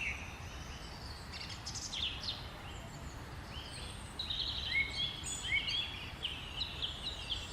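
Woodland birdsong: several small birds chirping and whistling in short phrases, busier in the second half, over a faint steady background hiss.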